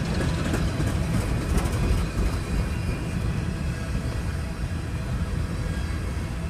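Slow-moving empty coal train rolling past, a steady low rumble of freight cars on the rails.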